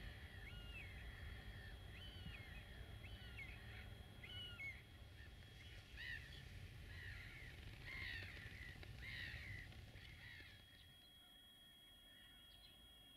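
Birds calling faintly: a string of short calls, about one a second, that stops about ten seconds in, over a low steady rumble.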